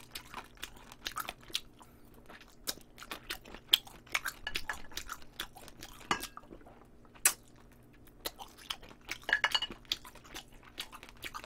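Close-miked chewing of braised beef short ribs: wet mouth clicks and short crunches as gristly, cartilage-laced meat is bitten and chewed, coming thicker about nine to ten seconds in.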